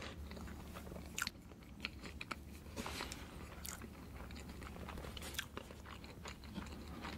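A person chewing a mouthful of soft mille crêpe cake close to the microphone, with scattered soft mouth clicks.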